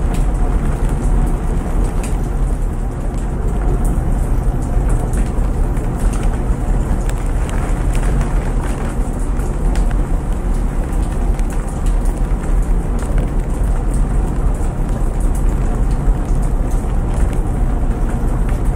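Steady rain ambience over the constant low rumble of a front-loading washing machine running, with light pattering on top.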